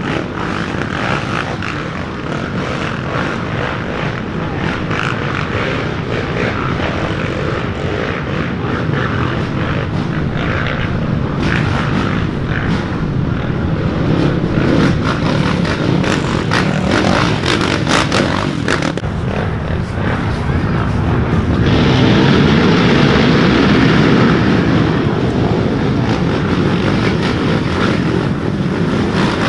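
Dirt bike engines running at race pace. The sound becomes fuller and a little louder about two-thirds of the way through.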